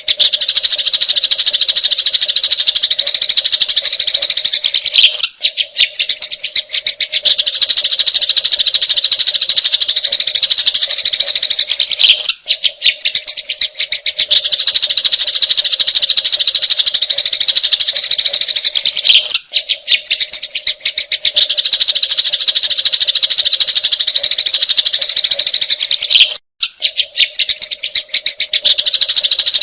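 Sparrows' fast, harsh, rattling chatter of fighting, dense and loud. The recording loops, breaking briefly about every seven seconds.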